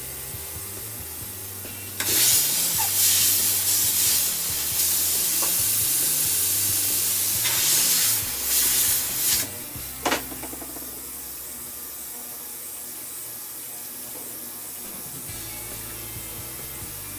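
Jeweler's steam cleaner blasting in loud hissing spurts, starting about two seconds in and running for about seven seconds with two short breaks, followed by a single click. Quiet background music underneath.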